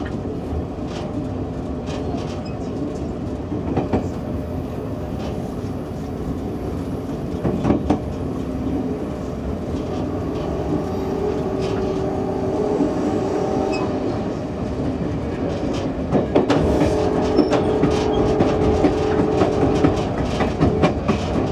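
Passenger train running on the rails, heard from the rear car: a steady rumble of wheels on track with scattered clicks over rail joints. A steady hum of several tones grows stronger in the second half.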